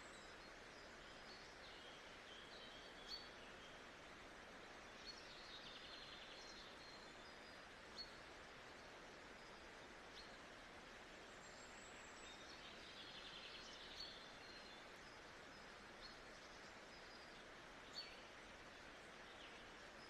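Faint nature ambience: a steady soft hiss with small birds chirping over it and short, sharp chirps every few seconds.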